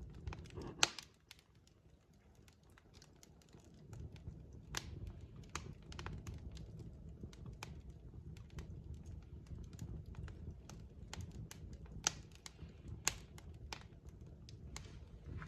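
Log fire in a fireplace crackling: irregular sharp pops and snaps of wood over a low steady rush of flame, with the loudest pops about a second in and again near twelve and thirteen seconds.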